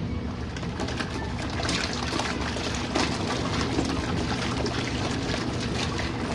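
RV washing machine running with water rushing and splashing over a steady electric hum. It starts and stops abruptly.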